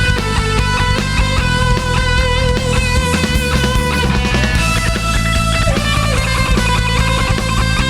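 Rock band playing an instrumental passage with no singing: electric guitar holding long lead notes over bass and drums.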